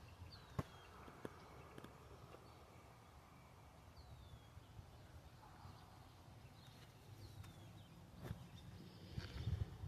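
Faint outdoor ambience: a bird gives a short, falling whistle about every three seconds, with a few soft clicks in between.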